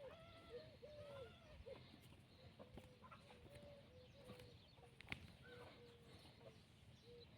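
Chickens clucking faintly, a steady run of short repeated calls that are fuller in the first second or so, with a single sharp click about five seconds in.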